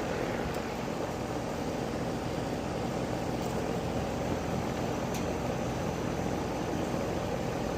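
Air-conditioning condensing unit running steadily with its newly replaced compressor just started and calling for cooling: an even rush of air with a low steady hum beneath.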